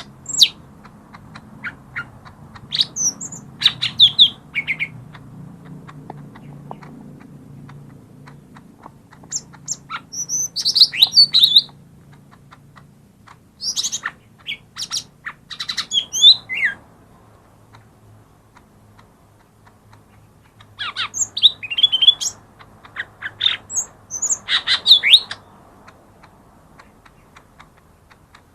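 Green leafbird (cucak ijo mini) singing: bursts of rapid, sweeping whistled and chattering notes in phrases of one to three seconds, broken by pauses of several seconds.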